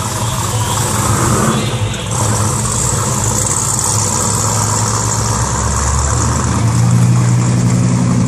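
A car engine idling with a steady, deep exhaust note, growing louder near the end.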